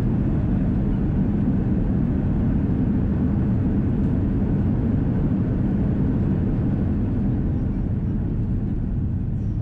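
Airbus A330-343 rolling out on the runway after touchdown, heard inside the cabin: a steady low rumble of engines and wheels that eases slightly near the end as the jet slows.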